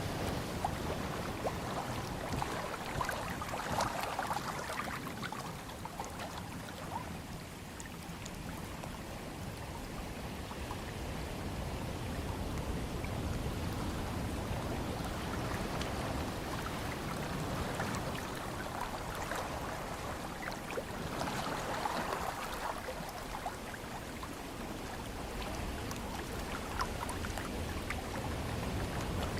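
Ocean waves washing in and drawing back in a steady hiss, with two louder swells, one a few seconds in and another about two-thirds of the way through.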